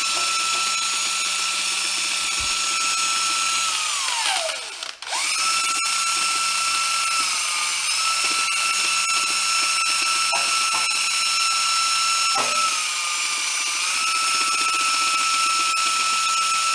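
DeWalt power drill running at high speed with a steady whine. About four seconds in it is let off and winds down, falling in pitch, then is restarted a second later; twice its pitch sags slightly as it is pressed against the work.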